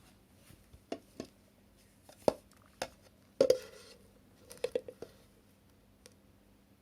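Hard plastic clicks and knocks from handling the REDHiLL C17 cyclone vacuum's dust box parts: a string of separate taps, the loudest pair about three and a half seconds in.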